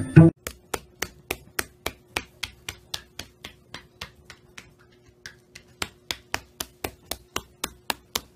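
A pet bird's claws clicking on a hardwood floor as it walks, a quick even patter of about three or four taps a second. The taps pause briefly in the middle and then start again.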